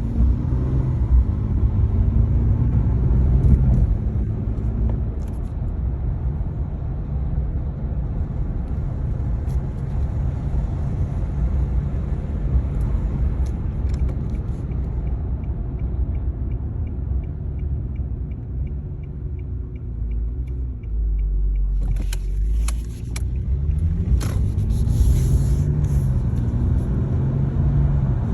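Car engine running, its pitch wandering up and down, with a faint regular ticking partway through and a few knocks about three-quarters of the way in. The wandering fits the unsteady idle the owner is chasing, which he puts down to a vacuum leak, perhaps at the brittle stock intake or throttle body gaskets.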